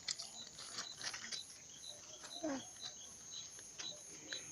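Crickets chirping faintly, a short chirp repeating evenly about twice a second.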